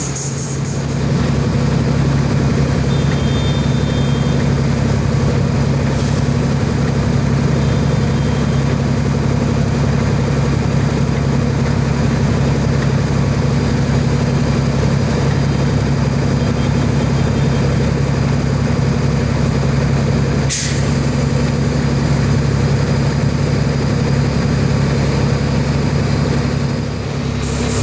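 Heavy diesel engine of a Shacman dump truck running steadily at low revs. Faint short high beeps come a few times, and there is one brief sharp burst about twenty seconds in.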